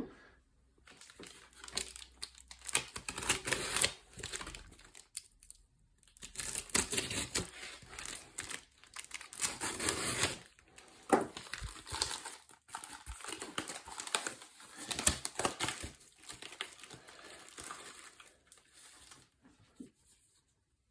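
Packaging unwrapped by hand: wrapping crinkling and tearing in irregular bursts with sharp crackles and short pauses, dying away near the end.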